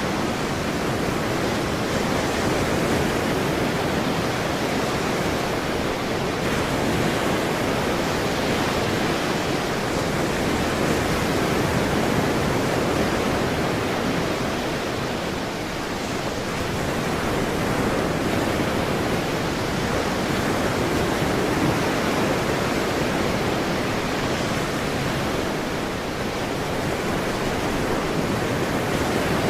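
Ocean surf washing steadily in a continuous wash of water noise, swelling and easing slowly with a slight lull about halfway through and another near the end.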